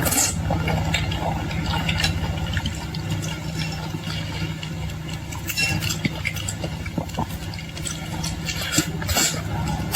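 Close-up eating sounds: chewing and handling of boiled shrimp and seafood, heard as scattered small clicks and crackles over a steady low hum.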